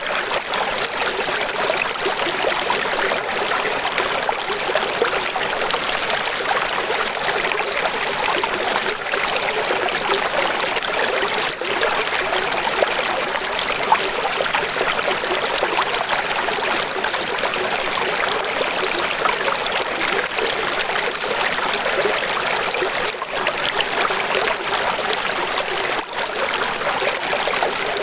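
Steady flowing water, an even hiss and splash of running water with almost no low rumble, continuous and unchanging.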